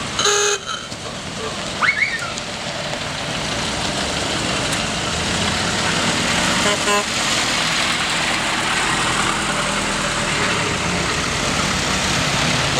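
A motor vehicle running close by, with a short horn toot about half a second in.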